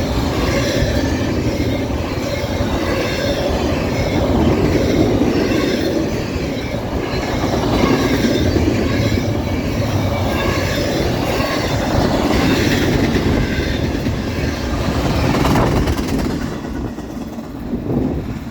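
Norfolk Southern freight train's cars rolling past at a crossing, with wheels clacking over the rail and squealing. The sound drops away near the end as the train clears.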